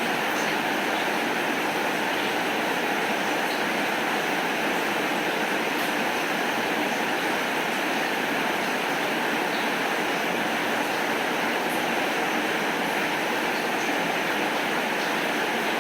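Steady rainfall, an even hiss that holds at the same level throughout, with a few faint scattered ticks and no thunder.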